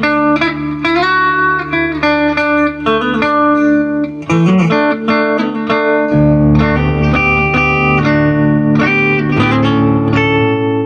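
Electric guitar played through a Fender Super Reverb tube combo amp: a run of picked single notes and chords over ringing low notes, with a short wavering bent note about four seconds in.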